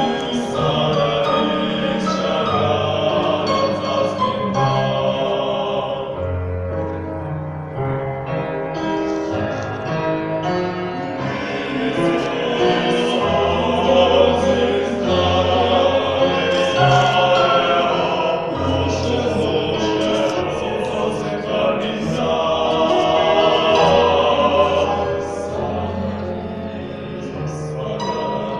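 A choir singing in several parts, with long-held low notes under the higher voices.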